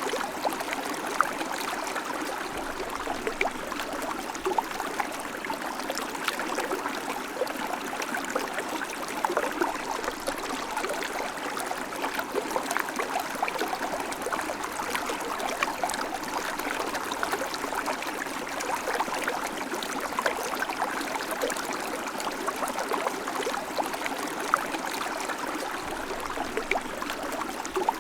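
River water flowing steadily, with close splashing and gurgling over rocks.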